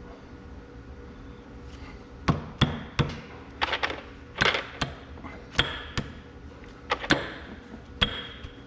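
A hammer striking metal about a dozen times at an uneven pace, starting about two seconds in. Some blows leave a brief metallic ring, consistent with tapping a part into place on the tractor's axle final drive.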